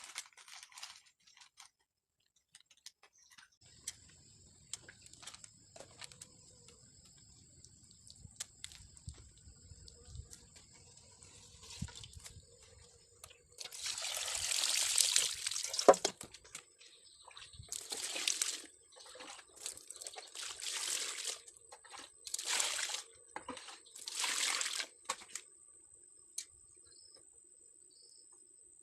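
Water pouring and splashing in a string of bursts: one longer pour of about two seconds around the middle, then several shorter splashes a second or two apart.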